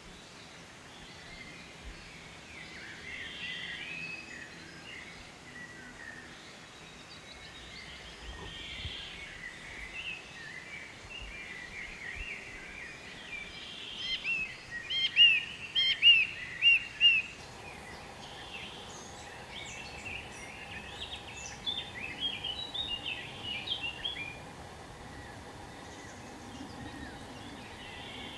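Small birds chirping and singing over a background hiss, with a burst of loud, sharp chirps about halfway through.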